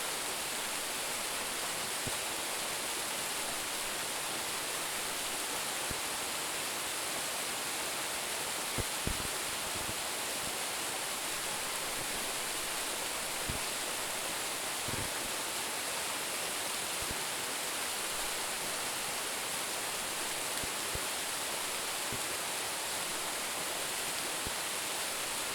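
A waterfall about 10 metres high, rushing steadily as a dense, even hiss. A few brief low thuds come near the middle.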